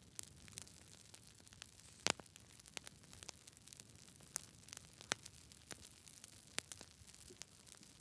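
Campfire crackling: a soft steady hiss with irregular sharp pops and snaps, the loudest pop about two seconds in.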